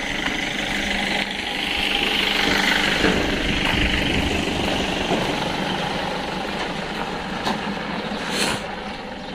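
A steady engine-like running noise that swells a couple of seconds in and then slowly fades toward the end.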